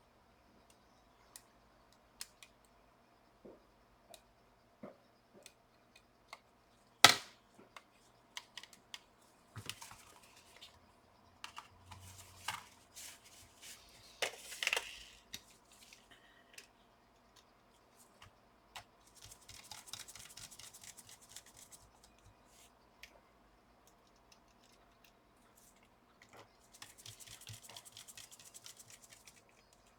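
Small clicks, taps and scrapes of a laptop's bottom cover and screws being refitted with a precision screwdriver, with one sharp click about seven seconds in and two stretches of rapid fine ticking later on.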